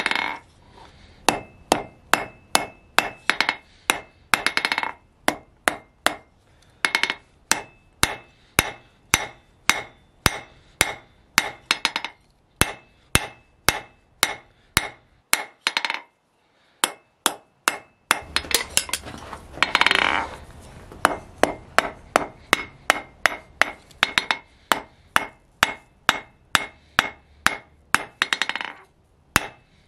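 Hand hammer striking hot spring steel on an anvil, steady blows about two a second with a bright ring after each. The blows stop briefly past the middle, then resume along with a short stretch of rushing noise.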